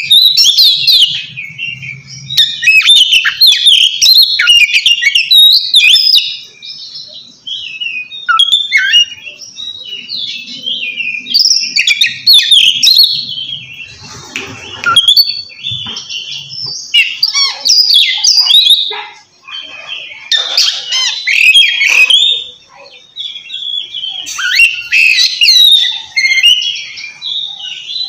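Oriental magpie-robin (kacer) singing loudly in its 'ngeplong' style: long runs of varied, fast-gliding whistles and harsher notes with short pauses between phrases. This is the loud calling of a bird challenging a rival.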